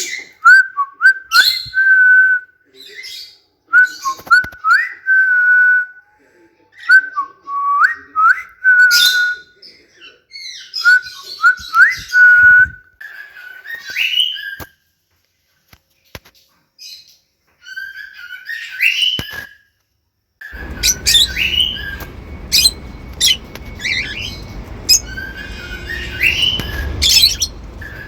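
Cockatiels whistling: a short tune of upward-swooping notes ending on a held note, repeated four times, then looser whistles and chirps. About two-thirds of the way through, a steady low background hum comes in under the whistles.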